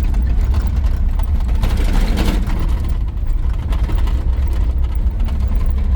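1983 GMC C2500 pickup's 350 small-block V8 and road noise heard from inside the cab while driving, a steady deep rumble. A short burst of broader noise comes about two seconds in.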